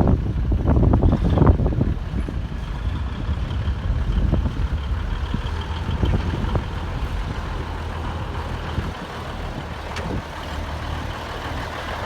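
1971 Freightliner water truck's diesel engine running with a steady low rumble. There is rough wind buffeting on the microphone in the first second or two, and a faint high whine joins from about two and a half seconds in.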